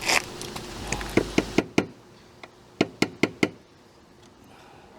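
Hammer tapping a new bottom oil seal into a lawnmower engine's housing: a string of short, light knocks in quick runs of about four, a second or so apart.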